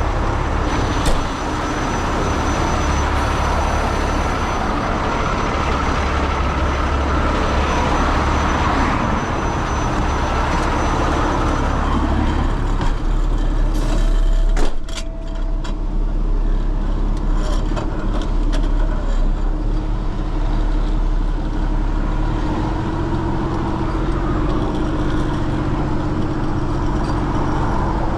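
Heavy truck engine running steadily, with a sharp knock about a second in and another about halfway through.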